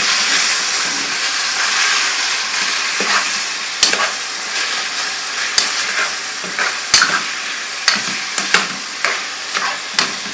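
Onion-and-spice masala with freshly added tomatoes sizzling in hot oil in a pan, the sizzle strongest at the start. From about four seconds in, a spoon stirring it knocks and scrapes against the pan again and again.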